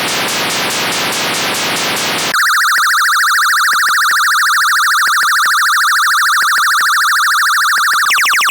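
Electronic sound effects from a Snap Circuits sound-effect IC, taken straight from its output. First comes a hissing noise made of rapid falling sweeps. About two seconds in it switches abruptly to a steady, fast-warbling buzz, and near the end to a quickly sweeping siren-like tone.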